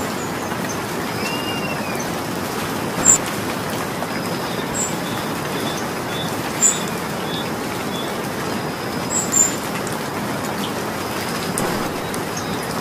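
Steady rain falling. A few short, high chirps stand out about 3, 7 and 9 seconds in.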